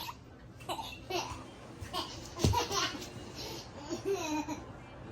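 A young child laughing and babbling in short bursts, with a single dull thump about halfway through.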